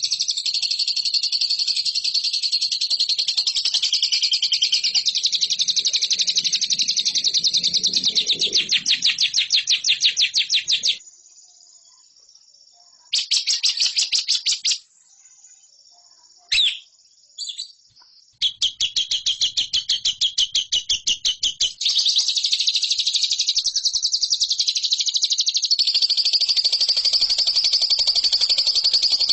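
Lovebird singing long, fast, high-pitched chattering trills of rapidly repeated notes. The song breaks off about eleven seconds in, returns in short bursts, then runs on steadily again for the rest of the time.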